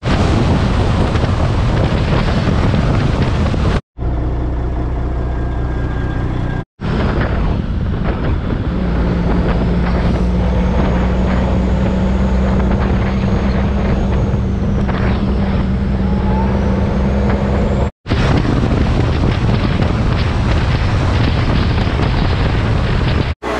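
Vehicle driving: steady engine and road noise with wind on the microphone, broken by several abrupt cuts between clips, with a steady low drone through the middle stretch.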